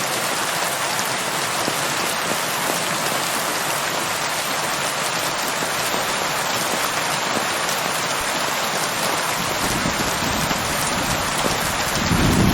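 Steady heavy rain, an even hiss of drops falling on surfaces. A low rumble of thunder comes in late and swells near the end.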